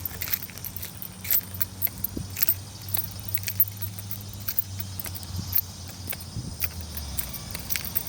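Light, irregular clicking and jingling as someone walks, like keys or small items jangling with each step, over a low steady engine hum that stops about seven seconds in.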